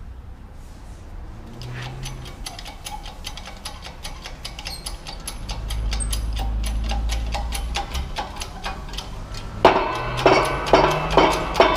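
Rapid, even ticking, then, near the end, much louder ringing knocks about twice a second, like metal being struck.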